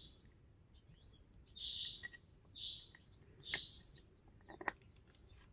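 Four faint, short bird chirps, all at much the same high pitch. Light clicks of a small plastic eyeshadow compact being handled come about three and a half and four and a half seconds in.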